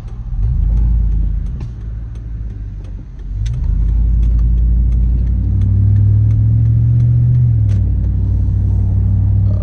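A 4.8 L LS V8 truck engine accelerating twice, its pitch rising each time. The first pull eases off after a couple of seconds; the second settles into a steady loud drone. The engine carries an unrepaired exhaust leak. A faint regular ticking runs under it.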